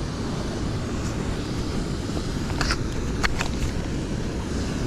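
Steady low rushing noise of a flowing stream mixed with wind on the microphone, with a few faint clicks about two and a half to three and a half seconds in.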